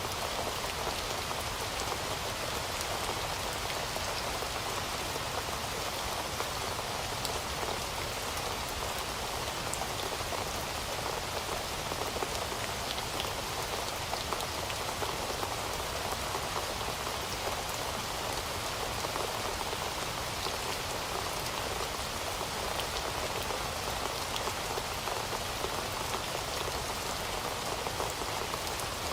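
Heavy rain falling steadily, with scattered individual drops pattering.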